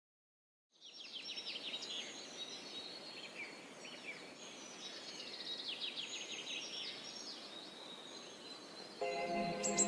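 Small birds chirping and twittering over a soft, even ambient hiss, starting about a second in. Near the end, music with sustained notes comes in under the birdsong.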